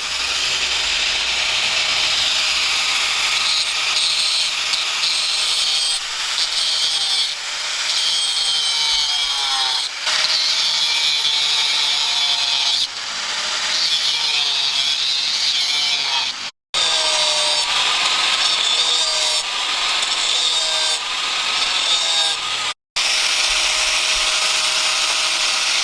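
Electric power tool grinding or sanding material, its motor pitch sliding up and down as the load changes. The sound drops out twice for a split second.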